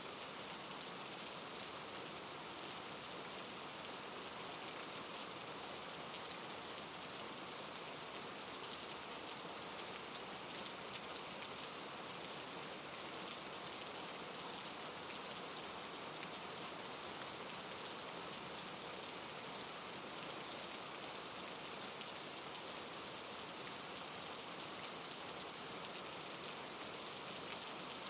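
Steady soft rain: an even hiss of falling rain with the fine patter of many small drops on a surface.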